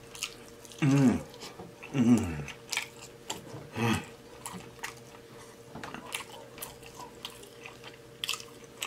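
Close-miked chewing and lip-smacking on braised beef rib meat: a run of small wet clicks. Three short low vocal hums falling in pitch, about one, two and four seconds in, are the loudest sounds.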